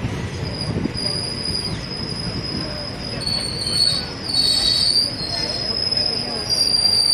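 Train wheels squealing against the rails: a steady high-pitched whine that wavers and shifts pitch around the middle, over the constant rumble of the moving coach.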